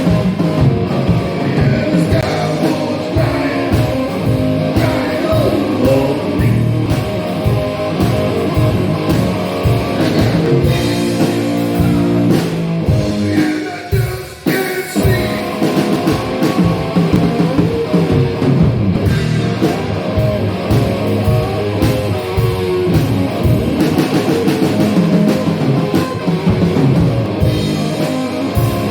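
Loud blues-rock punk song played by a guitar-and-drums duo: electric guitar over a pounding drum kit, with a brief drop in the music about halfway through.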